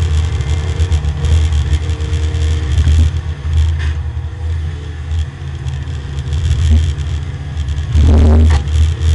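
Porsche 924 race car's engine heard from inside the cockpit. It turns quieter about three seconds in as the car slows from about 70 to 50 mph for a corner, then grows loud again near the end as the car accelerates out.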